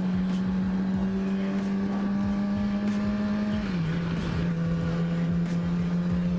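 Yamaha YZF-R6 inline-four engine running at a steady cruising speed under wind noise. Its note holds level, then drops slightly a little over halfway through as the revs ease off.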